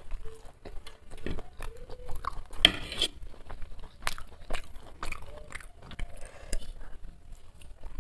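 Close-miked chewing and mouth smacks of someone eating, with sharp clicks of a metal fork against a ceramic plate as more food is picked up.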